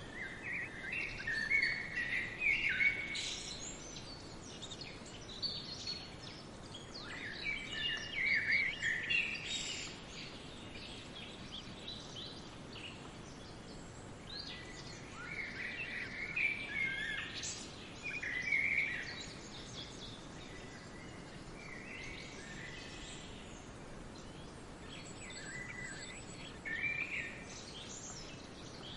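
Songbirds singing in short bursts of quick chirping phrases, several times, over a steady soft background rush.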